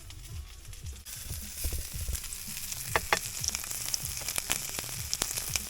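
A crackling hiss with scattered sharp clicks, growing louder about a second in.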